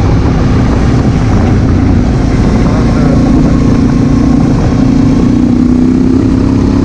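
2016 Honda Africa Twin CRF1000L parallel-twin engine running steadily at road speed under heavy wind noise. The engine note rises a little about halfway through and then holds.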